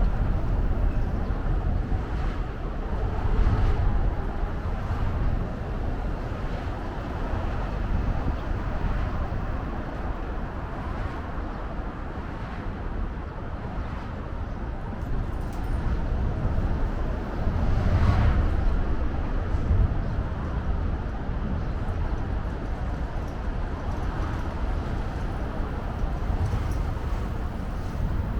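Steady rumble of city road traffic, swelling with a louder passing vehicle about eighteen seconds in.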